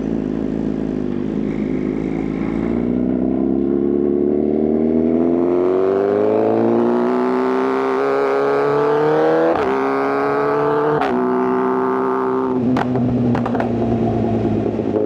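Inline-four superbike engine accelerating hard, its pitch climbing steadily through a gear, with two quick clipped gear changes in the middle. Near the end the throttle closes and the note drops, with a few sharp exhaust pops, then it settles to a steady cruise.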